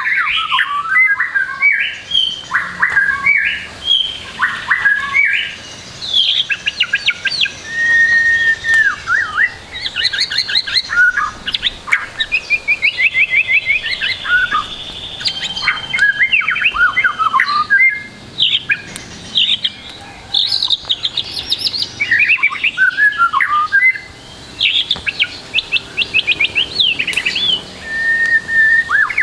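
White-rumped shama singing a long, varied song packed with mimicked phrases: clear whistles, fast trills and chattering runs, broken by short pauses.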